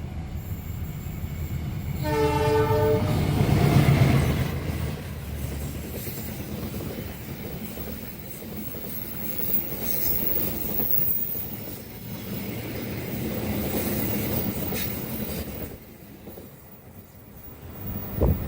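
A diesel-hauled passenger train passing close at speed. Its horn sounds once for about a second, about two seconds in, then the locomotive goes by with a loud low rumble. The steady rumble and clatter of the carriages on the rails follows and drops away a few seconds before the end, with a short sharp thump near the end.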